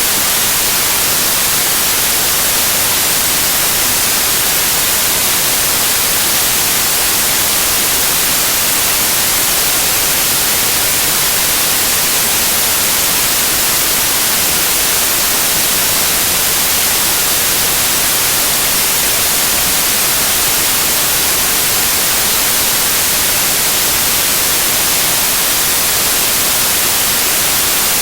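Loud, steady white noise: an even hiss across the whole range, strongest in the treble, with no change throughout.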